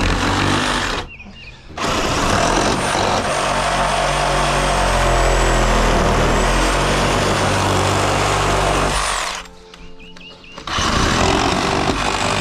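Reciprocating saw (sawzall) cutting through deck framing and nails, run in three stretches: a short cut, a long one of about seven seconds, and another starting near the end.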